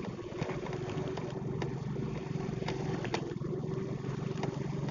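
Motorcycle engine running at a steady pace while riding, with a few sharp clicks scattered through.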